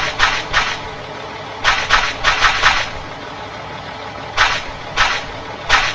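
Cartoon vehicle engine sound effect: a low steady hum with groups of short hissing chugs, about three or four a second, that stop and start several times.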